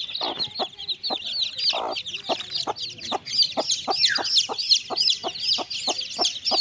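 A brood of two-day-old chicks peeping constantly, high and overlapping, while the mother hen clucks steadily, about three short clucks a second.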